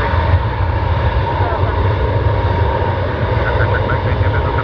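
Aircraft engine noise from an airplane on its takeoff run: a steady low rumble with a steady whine over it.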